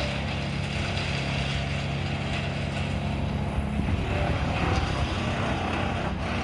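Engine of the tree-cleanup crew's machinery running steadily, a low drone.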